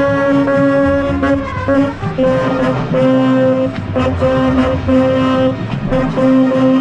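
Marching band's brass and saxophones playing loudly in unison, long held notes repeated in a steady rhythmic pattern, with a short break about two seconds in.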